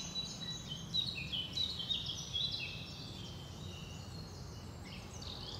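Several birds chirping and singing in quick short phrases, busiest in the first few seconds, over a steady low background rumble.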